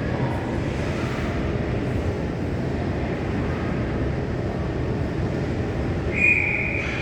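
Steady low rumble of ice-rink ambience during a hockey game. About six seconds in comes a single short, high whistle blast, a referee's whistle stopping play.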